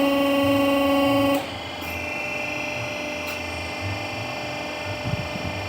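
Hydraulic power unit of a brick and paving-block press running with a steady whine. It is louder for about the first second and a half, then drops abruptly to a quieter, even whine.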